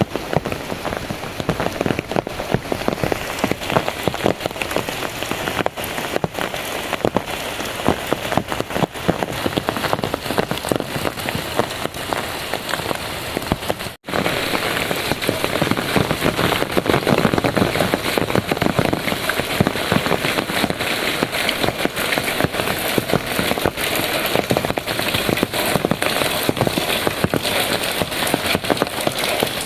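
Heavy rain falling steadily, a dense mass of drops striking surfaces. The sound cuts out for an instant about halfway through and comes back a little louder.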